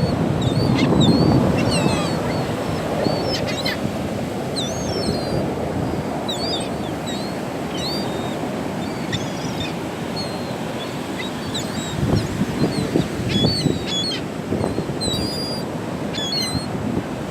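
A flock of seagulls calling: many short, high, squealing calls overlapping and scattered throughout, over a steady low rushing noise that swells near the start and again about three quarters of the way through.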